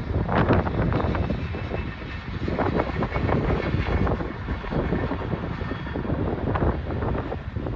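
Freight train of grain hopper cars rolling past, a steady low rumble with irregular sharper knocks, mixed with wind buffeting the microphone.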